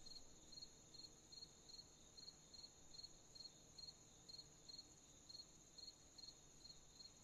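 Faint crickets chirping at an even pace of about two chirps a second, over a continuous high insect trill.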